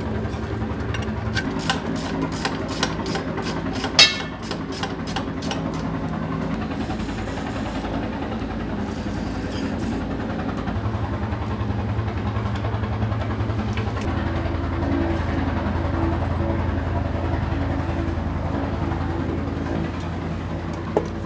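Engine idling steadily through its exhaust, its note shifting a few times. There is a row of light ticks and one sharp click about four seconds in.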